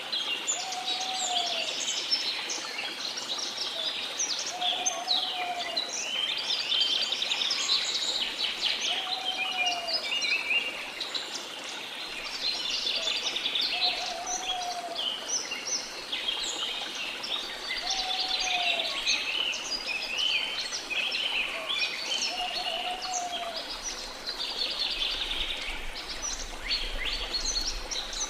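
A rainforest bird chorus: many birds chirping and trilling, with one lower call, an arched note that rises and falls, repeated about every four seconds. A soft steady hiss of flowing water runs underneath.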